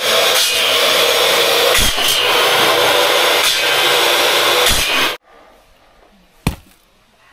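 A power saw running as it cuts through wood, steady for about five seconds and then cutting off suddenly. A single sharp knock follows about a second later.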